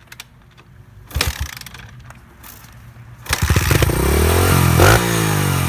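A few short knocks, then about three seconds in a dirt bike engine starts and catches, running loud and revving up and back down.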